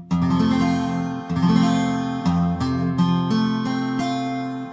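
Acoustic guitar strummed several times on a full barre F major chord, each strum left to ring.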